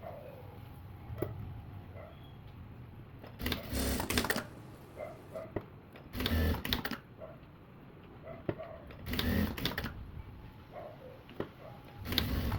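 Sewing machine stitching in four short runs of about a second each, a few seconds apart.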